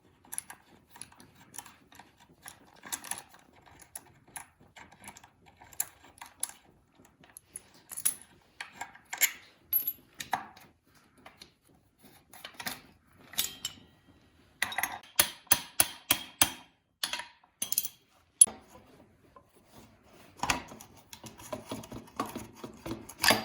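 Metal hand tools and bike parts clinking and clicking against each other in irregular knocks, with a quick run of clicks about two-thirds of the way through.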